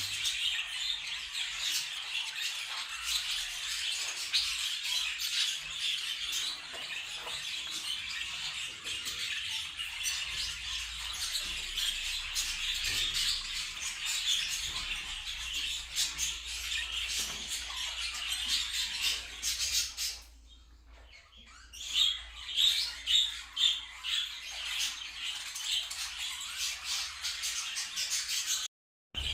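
A flock of budgerigars chattering and chirping without pause. About two-thirds of the way through it briefly drops away, then comes back as louder, sharper chirps.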